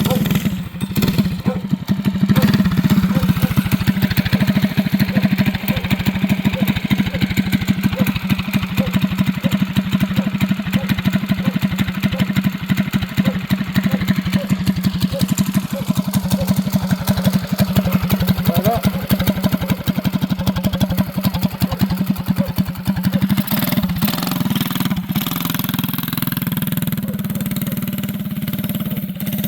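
Mini bike's small engine running steadily with a fast, even beat of firing pulses. The sound shifts about 24 seconds in.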